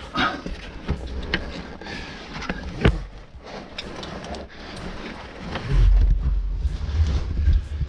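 A caver climbing out through a tight cave passage: irregular scrapes, knocks and clicks of gear and boots against rock. A louder low rubbing rumble comes about six seconds in.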